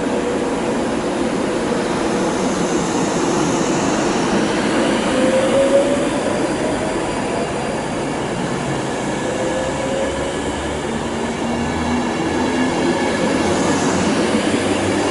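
Class 390 Pendolino electric train running through the station, a steady rumble of wheels on rail with faint whines rising in pitch.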